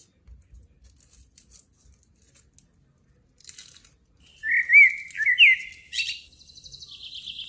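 A bird chirping loudly about halfway in: a few quick up-and-down whistled notes, then a faster run of higher notes. Before it, faint crinkling of the foil wrapper on a cheese portion being peeled open.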